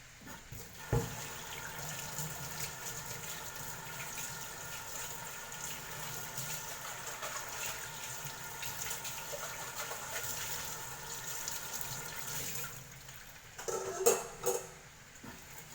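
Tap water running steadily into a kitchen sink, with a knock about a second in and a few louder knocks near the end.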